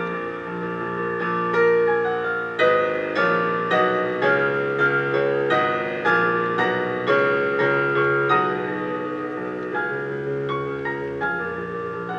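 Solo piano playing a slow, tender melody over sustained chords, with a new chord struck roughly every second or two.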